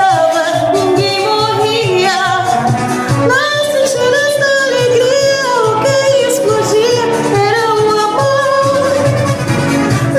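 A woman singing a festa junina song, her voice wavering with vibrato over instrumental accompaniment.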